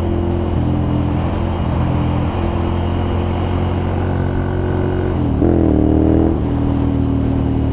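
Ducati Monster's L-twin engine with a Termignoni exhaust running steadily while riding. About five seconds in, the revs dip, then rise in a short, louder burst, and settle back to a lower, steady pitch, as with a shift or a blip of the throttle.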